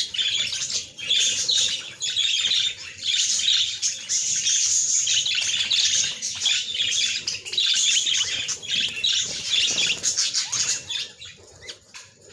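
Many small birds chirping and chattering together in a dense, busy chorus that thins out and fades near the end.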